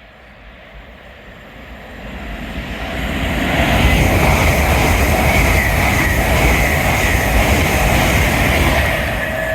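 Passenger train approaching and passing at speed. The rumble of wheels on rail builds over about four seconds, then holds loud and steady with a faint whine above it.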